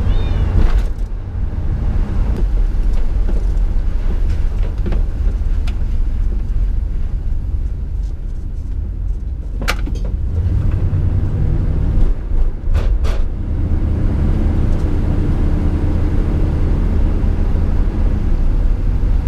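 Camper van driving on the road: steady engine hum and road rumble heard from inside the cab, with a few sharp clicks about halfway through.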